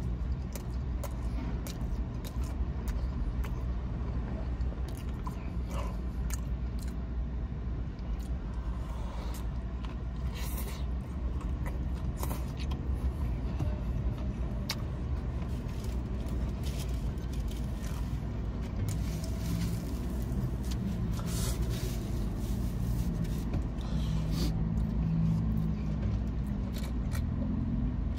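Close-up chewing of a crispy fried chicken sandwich: many small crunches and wet mouth clicks over a steady low rumble of a car or street traffic. Near the end he sips a drink from a cup.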